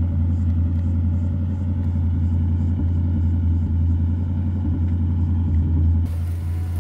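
AMC 360 cubic-inch V8 idling steadily with a deep, even rumble.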